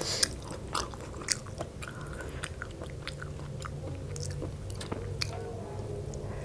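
Close-miked chewing and biting of a mouthful of spicy Lao noodle salad with raw green vegetables, with many sharp, wet mouth clicks.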